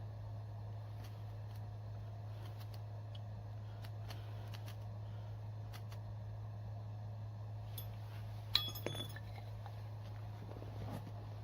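A steady low hum with scattered faint ticks, and a sharp clink with a short ringing tail about eight and a half seconds in, followed by a couple of smaller clinks.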